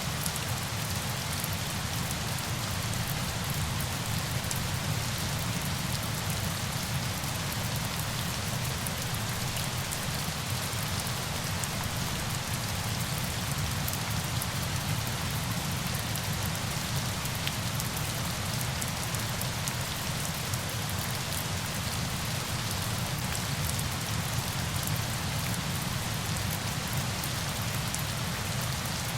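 Steady falling water: an even, unbroken wash of noise, with a low rumble beneath and many fine droplet ticks scattered through the top.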